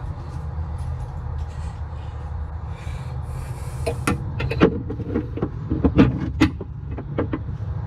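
Sharp metallic clanks and clicks, a dozen or so in quick succession in the second half, as metal parts and hand tools are handled during work on an ATV, over a steady low hum.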